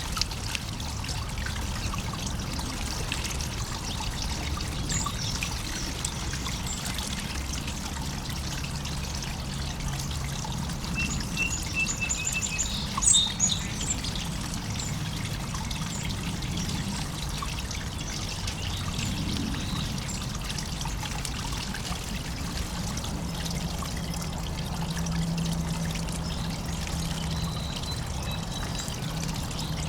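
Water trickling steadily in a backyard birdbath fountain, with a short run of small bird chirps about halfway through and a few faint chirps near the end.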